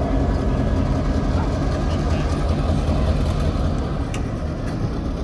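Steady low rumble of a heritage railroad train, with faint chatter of people over it.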